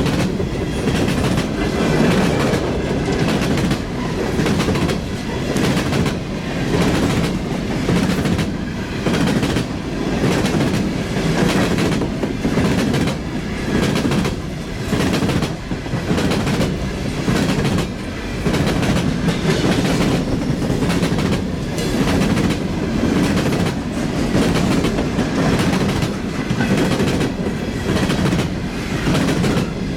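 Railroad cars rolling past, their wheels clacking in a steady, regular rhythm over rail joints, with a continuous rumble underneath.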